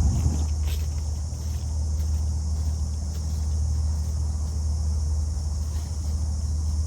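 Steady high-pitched insect chorus in the trailside vegetation, over a continuous low rumble.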